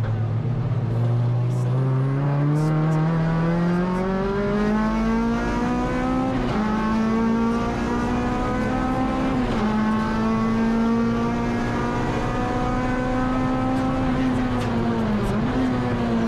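Honda K24 four-cylinder engine of a Civic EG race car, heard onboard under hard acceleration: the revs climb steadily, drop sharply at two quick upshifts a few seconds apart, then hold steady before a brief lift and pick-up near the end.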